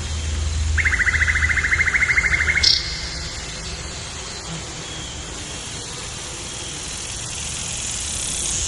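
A rapid pulsing trill, about two seconds long, over a steady hiss of outdoor ambience; a brief higher chirp follows right after it.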